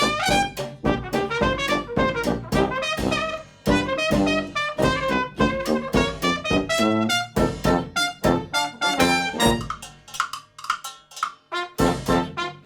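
Hot jazz band music: trumpet and trombone playing over a steady drum beat, the band thinning out briefly near the end.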